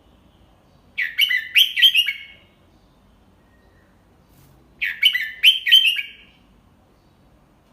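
Red-whiskered bulbul singing: two short phrases of about four quick, clear notes each, a few seconds apart.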